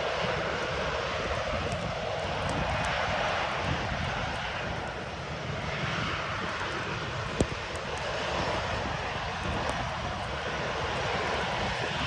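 Steady roar of outdoor winter-storm noise with a low rumble underneath, and one sharp click about seven seconds in.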